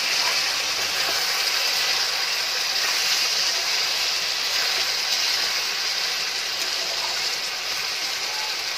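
Chicken pieces sizzling in hot oil and masala in a wok: a steady, even frying hiss.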